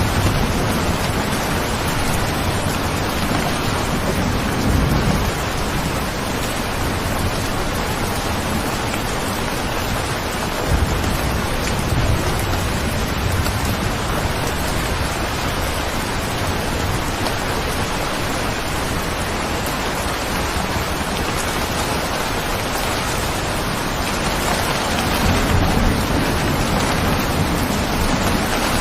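Steady rain falling, an even hiss with low rumbles swelling up a few times, at about five seconds, briefly near eleven seconds and again near the end.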